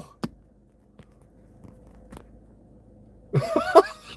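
Low, steady background hum with a few faint clicks, then a man's voice briefly near the end.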